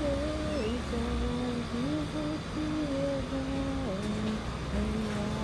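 A person humming a slow tune, with long held notes that slide from one pitch to the next, over a steady low rumble.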